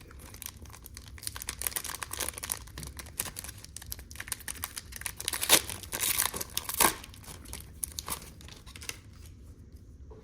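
Foil wrapper of a Panini Prestige football card pack being crinkled and torn open in dense crackling bursts. The loudest rips come about five and a half and seven seconds in, and the sound thins out near the end.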